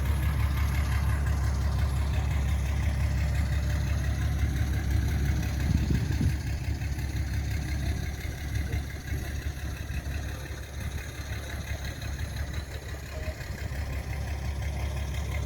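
Excavator's diesel engine running steadily with a deep hum, dropping a little in level about halfway through.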